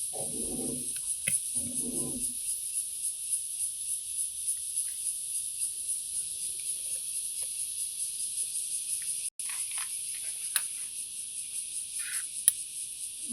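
Insects trilling in a steady, high-pitched, unbroken chorus. A dove coos twice near the start, and a few sharp clicks come near the end.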